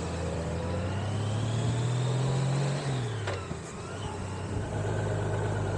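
Motorcycle engine running under way, its pitch climbing slowly as it pulls, then falling off sharply about three seconds in as the throttle closes, and settling to a lower steady note, with wind and road rush behind it.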